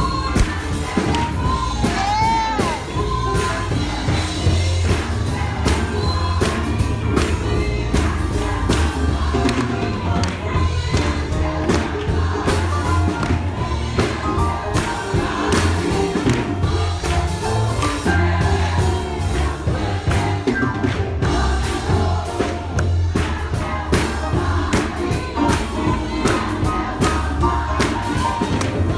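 Congregation and choir singing gospel music with a band: a strong steady bass and sharp percussion hits throughout.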